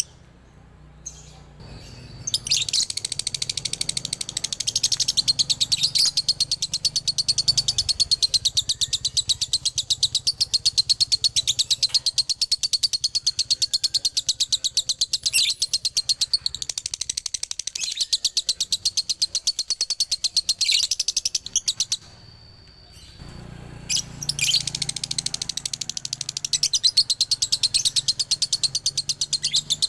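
Male lovebird singing its long, rapid, shrill chattering song, the 'dobelan' of fast repeated chirps. It starts a couple of seconds in, breaks off for about a second and a half three-quarters of the way through, then carries on.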